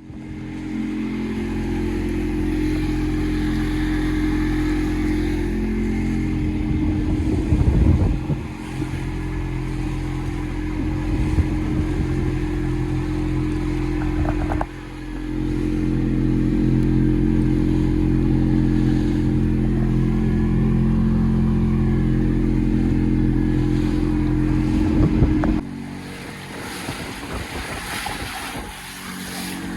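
Boat's outboard motor running steadily, with two brief louder noisy bursts and an abrupt change partway through; near the end the engine sound drops quieter.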